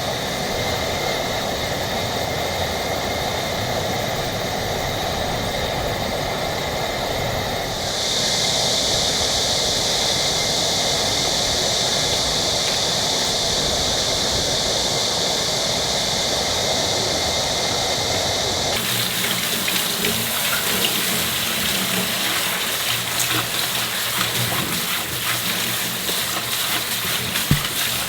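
Rushing water of a mountain stream, steady and loud. It changes character abruptly about 8 seconds and again about 19 seconds in. The last stretch is full of many small ticks.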